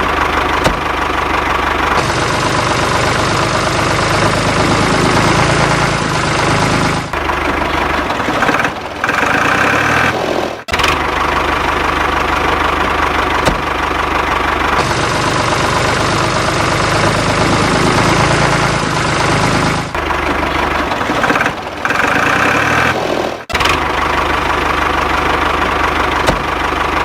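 Tractor engine running and knocking, loud and steady; the sound repeats itself about every 13 seconds, breaking off briefly each time it starts over.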